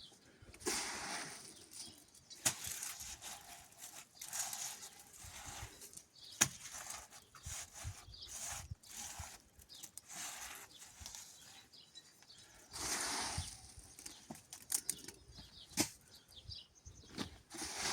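Hand tools working wet cement on a floor: irregular scraping, swishing strokes with a few sharp knocks in between.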